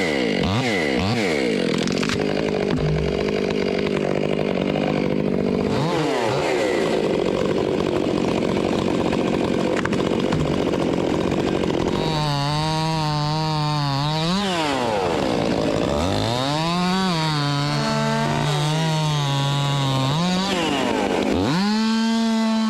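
Chainsaw cutting wood. Its motor pitch dips and climbs back again and again, most clearly in the second half, as the chain loads up in the cut and frees again.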